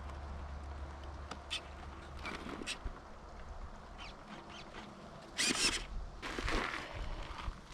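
Nitro RC engine of a Traxxas Revo 3.3 (O.S. 21TM) running faintly at low revs, with a few light clicks and two short louder rushes about five and a half and six and a half seconds in.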